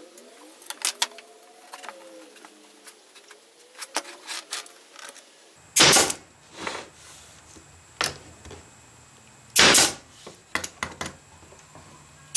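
Air-powered staple/brad gun firing into walnut three times, about four seconds apart, each shot a sharp bang with a short blast of air. Lighter clicks and taps come before the first shot and between the shots.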